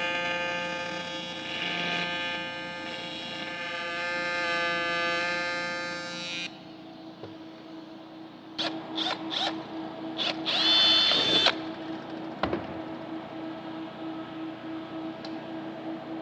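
A power tool's motor running steadily, then cutting off suddenly about six and a half seconds in; a few short bursts and a sharp click follow.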